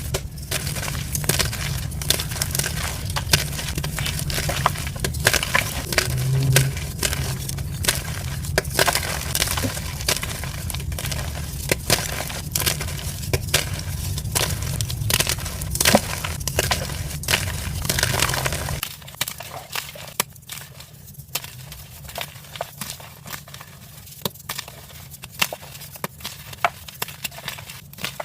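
Gym chalk being crushed: a dense, irregular run of dry crunching and crackling over a low hum. About 19 s in, the hum stops, the level drops and the crunches become sparser and quieter.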